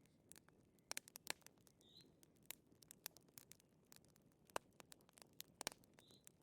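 Wood fire crackling quietly: irregular sharp pops and snaps over a faint low hiss, with a faint short high squeak twice.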